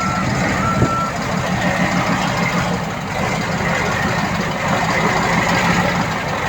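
A heavy diesel earthmoving machine's reversing alarm gives a couple of beeps in the first second and starts beeping again at the very end, over its diesel engine running steadily.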